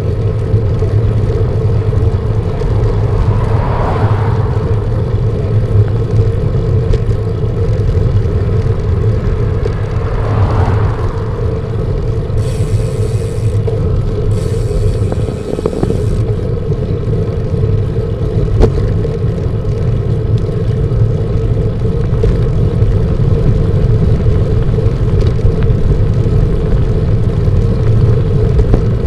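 Steady wind rumble on the microphone of a moving road bike, riding into gusty wind, with two brief swells about 4 and 10 seconds in and a short hiss in the middle.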